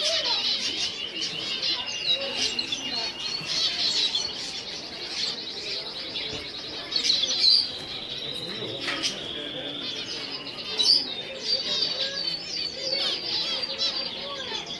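Many small birds chirping and trilling together in a dense, continuous chorus, with a few louder calls about halfway through and again near the end.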